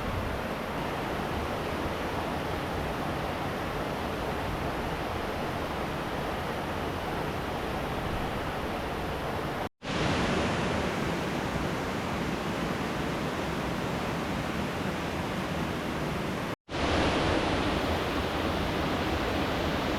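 Steady rush of river water. It cuts out sharply for a split second twice, about ten seconds in and again near sixteen and a half seconds, and comes back slightly louder each time.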